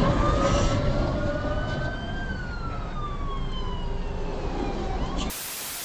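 Emergency vehicle siren wailing over road noise in one slow cycle, rising for about two seconds and then falling away. Near the end a burst of hiss replaces it.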